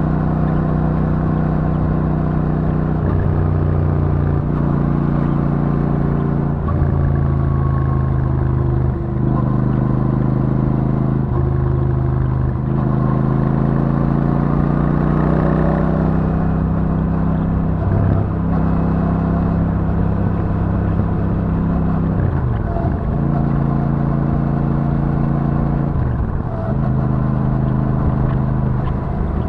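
Royal Enfield Super Meteor 650's 648 cc parallel-twin engine with stock exhaust running while riding at cruise. Its pitch steps up and down several times as the throttle changes, with a slow rise about halfway through.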